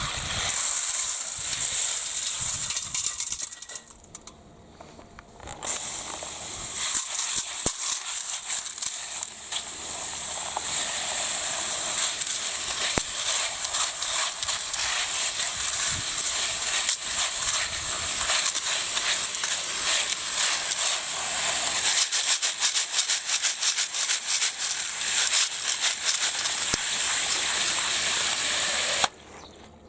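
Running water splashing into a flowerpot birdbath as it is refilled, a steady hissing splatter that breaks off for about a second and a half about four seconds in and stops near the end.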